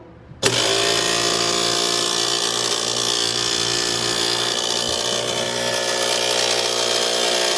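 Old, badly rusted kitchen garbage disposal switched on about half a second in, spinning up and running loudly and steadily with a many-toned mechanical whine. The unit is loud enough to draw a noise complaint.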